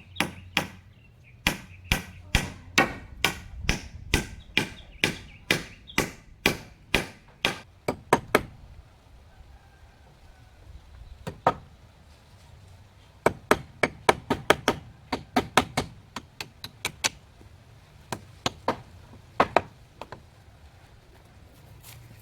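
Repeated chopping strikes, about two or three a second, in several runs with short pauses between them.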